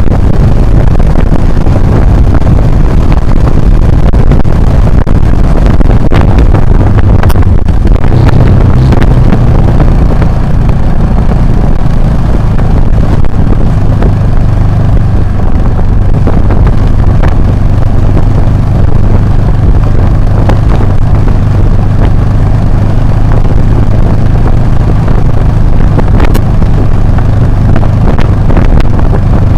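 Adventure motorcycle being ridden, its engine running steadily under heavy wind buffeting on an action camera's microphone.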